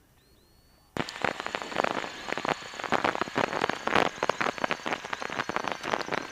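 A loud burst of crackling, rustling noise on the microphone, full of clicks, that cuts in suddenly about a second in and runs on unbroken.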